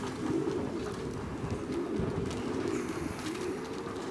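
Pigeons cooing continuously, several low warbling coos overlapping.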